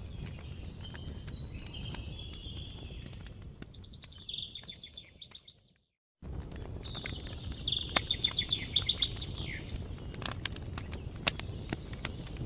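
Wood campfire crackling with scattered sharp pops over a low steady rumble, while songbirds sing trilled phrases. About five seconds in, the sound fades out to a brief silence, then cuts straight back in, like a loop joint.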